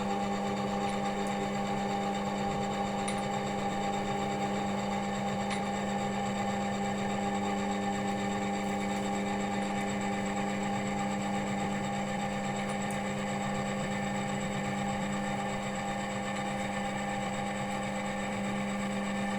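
Electric oil-testing machine spinning its steel test roller in hot engine oil under an added load: a steady hum with several fixed tones, the lowest and strongest a deep drone, holding at one pitch and level throughout.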